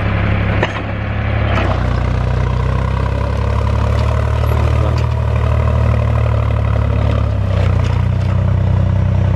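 Tractor diesel engine running under load while it backs up and pulls forward to get out of mud, its low steady note shifting in pitch about a second and a half in and again near the end as the throttle and load change.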